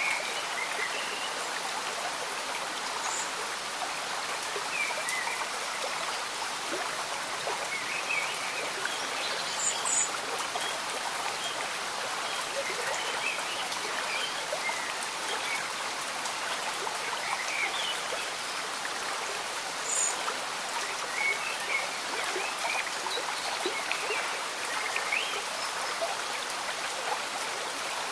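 Slow-moving stream bubbling and trickling, with gentle rain falling, in a steady, even wash of water sound.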